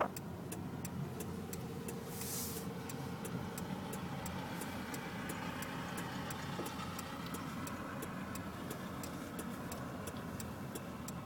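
Car driving along, heard from inside the cabin: a steady engine and road rumble with an even, fast ticking of about three clicks a second. A short hiss comes about two seconds in.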